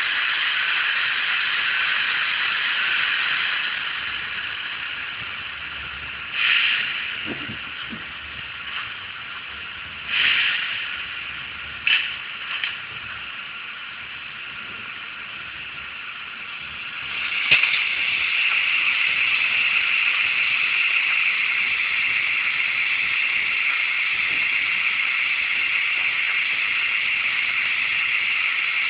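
Digital sound from the LokSound 3.5 decoder in a Roco model Ce 6/8 II 'Crocodile' locomotive, played through its small onboard speaker: a steady, thin running hiss that drops back after a few seconds. Four short hissing bursts follow, then a click, and the steady hiss returns louder.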